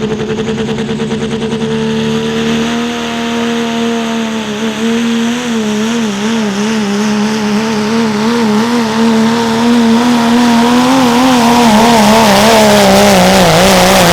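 Diesel pickup engine held at full throttle while pulling the sled. Its steady high note starts to waver up and down about four seconds in and grows louder, then cuts off sharply at the very end as the throttle drops.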